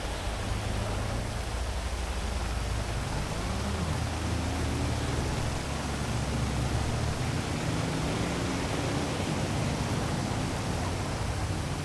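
Steady heavy rain, an even hiss, over a low city rumble with faint rising and falling tones like passing traffic.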